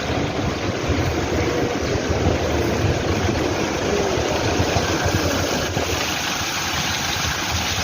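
A vehicle's engine running steadily, with constant low rumble and road noise.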